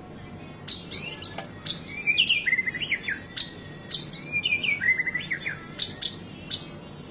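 White-rumped shama singing: sharp, clipped whistles and two quick phrases of rising and falling notes.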